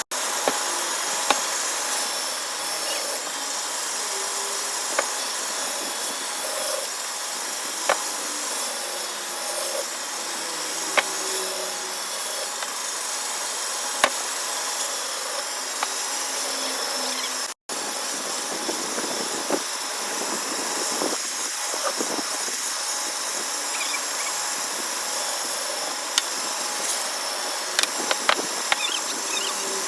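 Woodworking power tool running steadily, with sharp knocks of wood every few seconds and several close together near the end. The sound cuts out for an instant a little past halfway.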